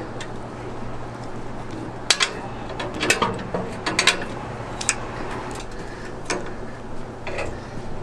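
Scattered sharp clicks and clatters, a handful spread over several seconds, over a steady low hum.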